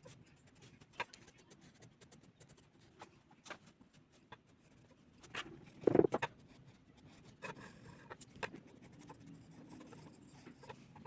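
Drawing strokes on paper: short, scattered scratches of a drawing tool across the sheet, with one louder thump about six seconds in.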